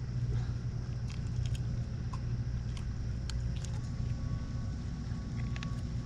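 Steady low motor hum, with scattered light clicks and taps.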